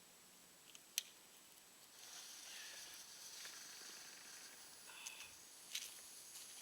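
A single click about a second in, then a faint, steady high hiss from about two seconds on: the fuse of a silver fountain firework burning down after being lit.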